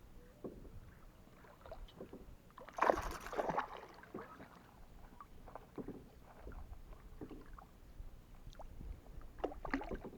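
Handling noises on a fishing kayak: scattered light knocks and rubs on the hull, with a louder rustling burst about three seconds in and a few sharper knocks near the end.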